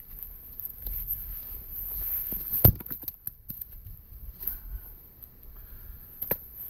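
Axe strikes on firewood rounds: one loud, sharp wooden crack about two and a half seconds in and a weaker one near the end, with small knocks of wood being handled between.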